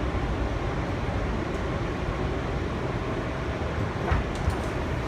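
Steady rumble inside an R160B Siemens subway car on the move, with a couple of faint clicks about four seconds in.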